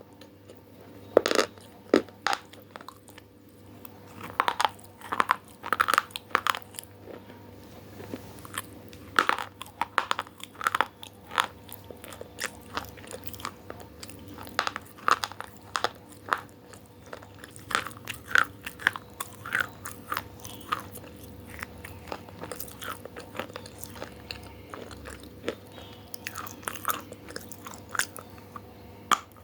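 A person biting into and chewing crunchy food close to the microphone: a long run of loud, irregular crunches, several a second in clusters, with short gaps between bites.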